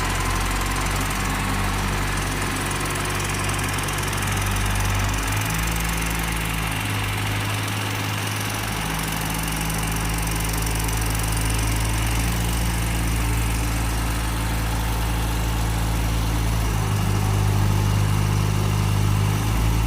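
An engine running steadily with a low hum, its pitch shifting slightly a few times.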